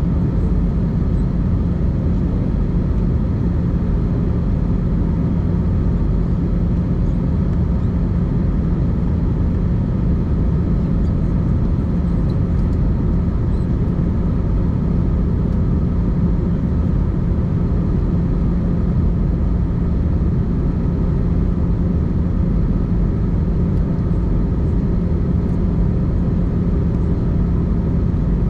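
Airbus A320-200 cabin noise heard from a passenger seat: a steady rumble of engines and airflow with a constant low hum and no change in pitch or level.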